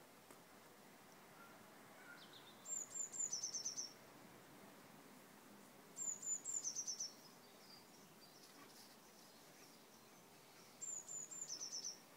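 A small songbird sings the same short phrase three times, each about a second long: a few high, thin notes, then a quick, slightly lower trill. A faint, steady background noise runs between the phrases.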